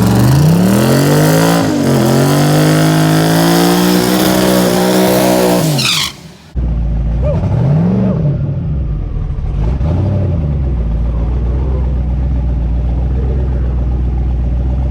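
A drag-racing engine at full throttle, its pitch climbing steadily through a gear change about two seconds in. It falls away as the throttle closes and cuts off abruptly. A steady low engine idle follows, with two short throttle blips.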